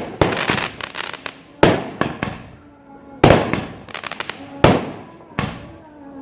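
Fireworks going off: six loud, sharp bangs roughly a second apart, each trailing off, with smaller crackling pops between them.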